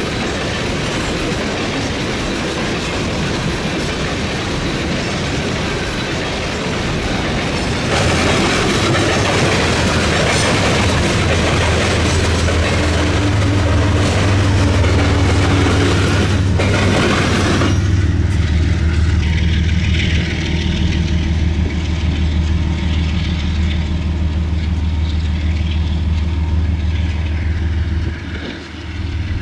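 Freight train rolling past, its wheels clacking over rail joints and the crossing diamond. About two-thirds of the way in the wheel noise drops away suddenly, leaving a steady low rumble.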